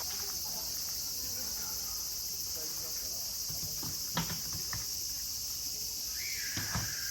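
Steady, high-pitched chorus of insects shrilling, typical of crickets. A few short knocks sound over it, the clearest about four seconds in. Just after six seconds a thin, high tone starts and is held, falling slightly.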